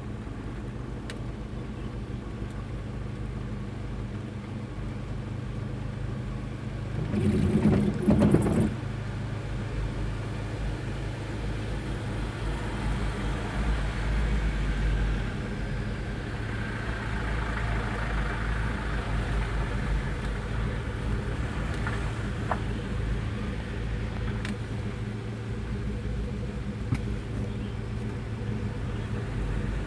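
Truck engine running steadily on the road, with one brief louder burst about seven seconds in.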